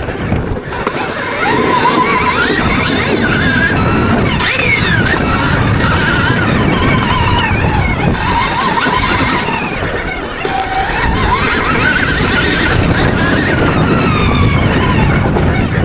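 Stark Varg electric motocross bike's motor whining up and down in pitch as the throttle opens and closes, over loud rushing wind and tyre noise.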